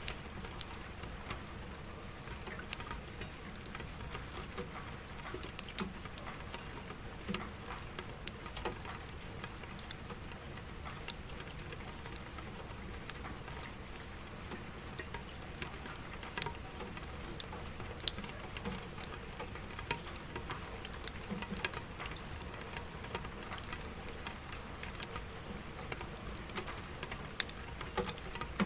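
Steady rain, with many separate drops pattering and ticking on a hard surface.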